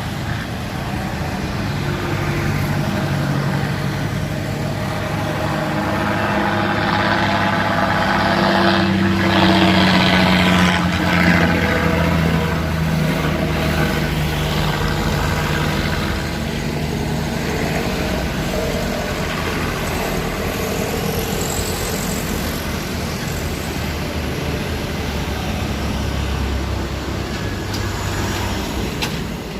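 Truck engine labouring up a steep hill, with other road traffic; it swells to its loudest about a third of the way in, then settles to a steady run.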